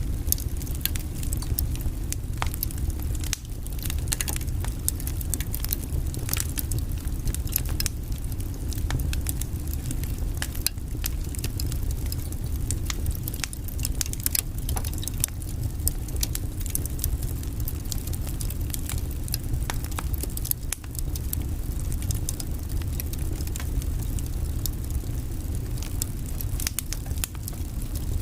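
Log fire burning in a fireplace: a steady low rumble of flame with frequent sharp crackles and pops from the burning wood.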